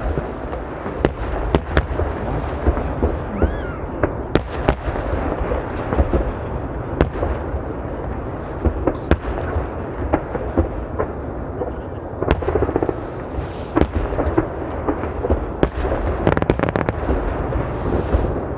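Fireworks display: aerial shells bursting with sharp bangs every second or so over a continuous rumble of further bursts, with a quick cluster of bangs near the end.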